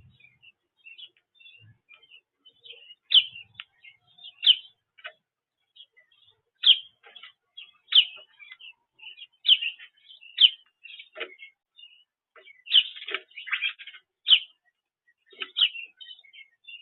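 Several small birds chirping: short, sharp, repeated chirps, the loudest coming about every second or two, with many fainter chirps between and a dense flurry of chirps about 13 seconds in.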